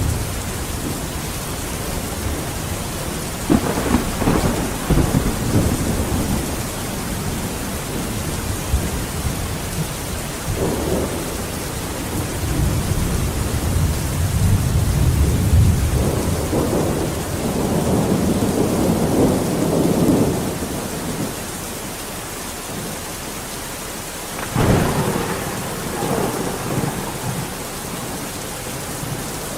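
Steady rain falling through a thunderstorm, with thunder rumbling in repeated swells, one sharp crack of thunder about 25 seconds in.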